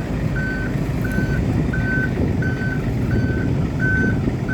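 Reversing alarm of heavy paving-site machinery beeping steadily at one pitch, about one and a half beeps a second, over the low rumble of a heavy engine.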